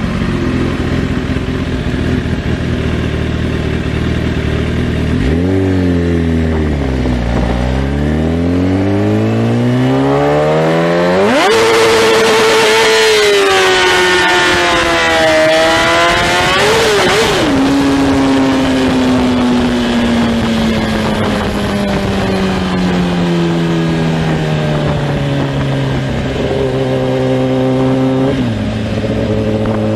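Sportbike engine running under throttle. Its pitch dips and climbs again, then it revs hard to a high, loud pitch about eleven seconds in, winds slowly down for several seconds, and drops abruptly near the end.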